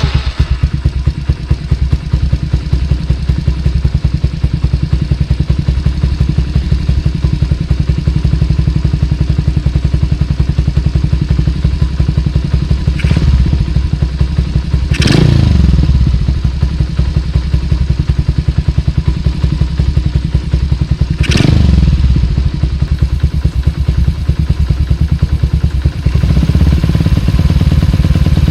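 Honda Super Cub's bored-up 88cc single-cylinder four-stroke running through a Mizumoto Racing L-11 racing muffler, idling with a steady, even exhaust beat. Three quick throttle blips, about 13, 15 and 21 seconds in, each rise sharply and drop back to idle.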